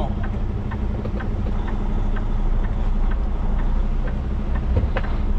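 Semi truck's diesel engine running steadily at low speed, heard from inside the cab, with a light ticking about twice a second.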